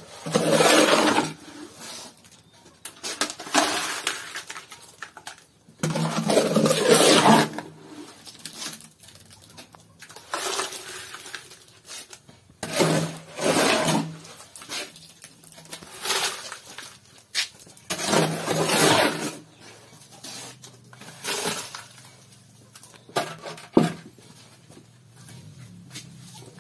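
Concrete mixed with fine gravel being scooped and dumped: a gritty, rasping rush, about seven times, each lasting a second or so.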